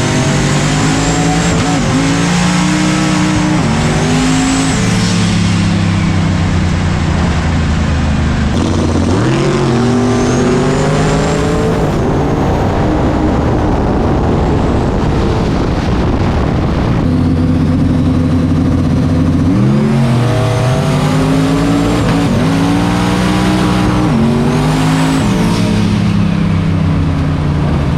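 Drag-racing car engine running hard at high revs, its pitch climbing and dropping several times, with a faint high whistle over it.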